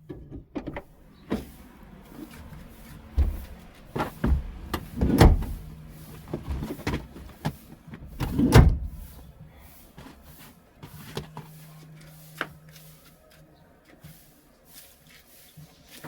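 Knocks, clicks and rubbing from things being handled while cleaning inside a car, with a few louder thumps; the loudest come about five and eight and a half seconds in.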